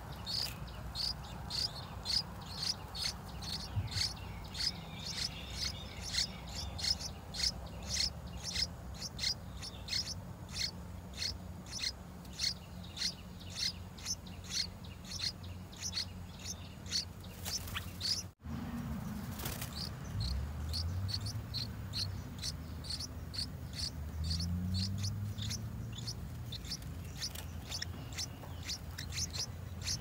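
Bird chirping: short, high chirps repeated about twice a second. Under them in the second half is a low hum that rises in pitch twice.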